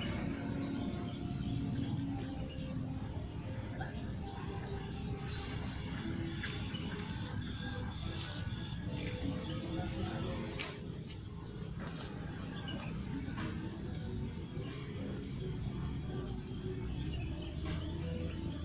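A small bird chirping repeatedly in short, high chirps every second or two, with a single sharp click about halfway through.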